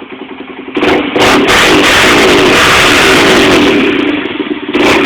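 Honda TRX300EX ATV's single-cylinder four-stroke engine, fitted with a Vance & Hines aftermarket exhaust, goes from idle into hard revving about a second in. It stays high for about three seconds, drops back briefly, and is revved again near the end.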